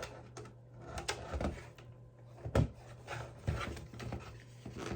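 Scattered plastic clicks and knocks from a mini portable air cooler and its power cord being handled and plugged in, the loudest knock about halfway through, over a faint low hum.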